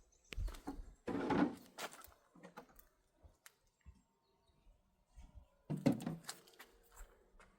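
Several dull thumps and knocks, loudest about a second in and again just before six seconds in, with a quiet gap between.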